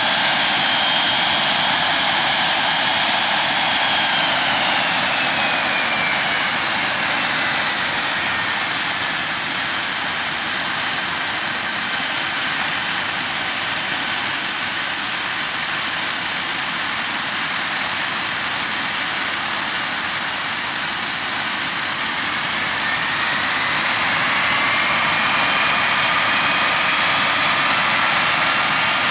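Hawker Siddeley Nimrod's Rolls-Royce Spey turbofan engines running on the ground, a steady loud rush with a high whine. The whine falls in pitch a few seconds in as the engines are throttled back, then climbs again near the end as power is brought up.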